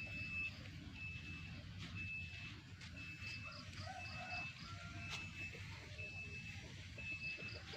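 A high, even beep repeating about once a second, each beep about half a second long, over a low rumble.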